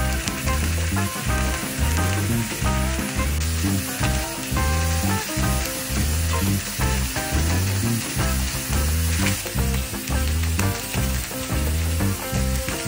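Food sizzling as it fries in a pan, a steady hiss that cuts off suddenly near the end, over background music with a rhythmic bass line.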